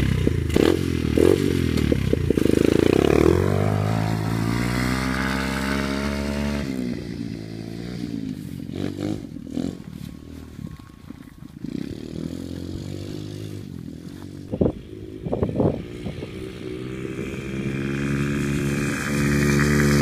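125cc dirt bike engine revving hard, then fading into the distance with its pitch dropping as the bike rides away. A few short sharp revs sound far off, and the engine grows loud again near the end as the bike comes back.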